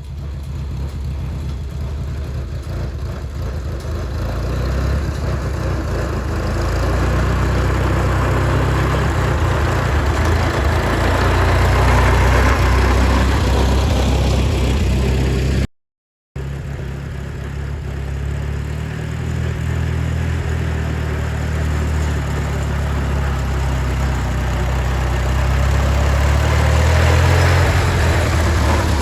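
1936 Silver King tractor's Hercules IXA four-cylinder engine running after its rebuild. It grows louder over the first dozen seconds, breaks off briefly in the middle, then swells again near the end.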